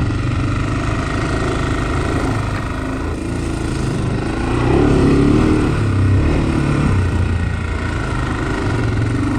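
Honda 400X ATV's single-cylinder four-stroke engine running on the move, its note rising and falling with the throttle and loudest about five seconds in.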